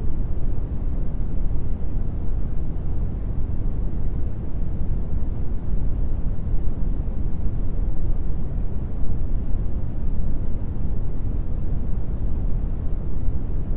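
Steady brown noise: an even, unbroken hiss weighted heavily toward the deep end and thinning out toward the treble.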